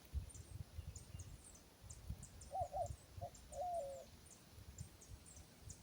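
A dove cooing: a short call of about three low notes a little under halfway through. It is heard over quick high chirps that repeat throughout and low rustling.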